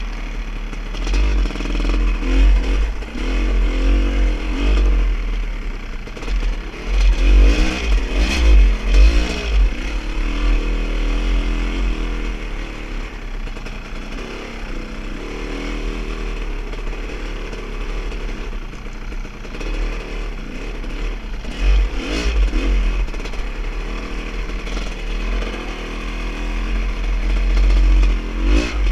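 A vehicle engine running on a rough trail, revving up and easing off in surges, with clattering, over a heavy low rumble of wind on the microphone.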